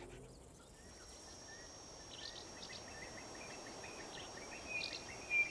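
Bush ambience: a faint, steady high-pitched insect drone with a run of short bird chirps over it, a few louder chirps near the end.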